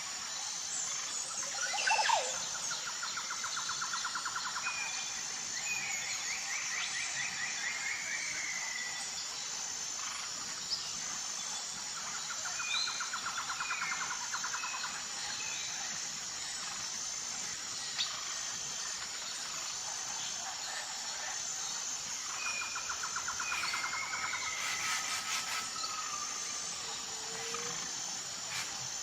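Wild birds singing in morning ambience. One bird repeats a buzzy trilled phrase about every ten seconds amid short chirps and slurred calls, over a steady high-pitched drone.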